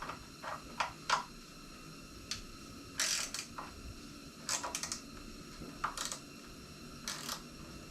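Scattered light clicks and a few short scrapes of hand tools being handled under a motorcycle, getting ready to loosen the skid plate bolts; the longest scrape comes about three seconds in.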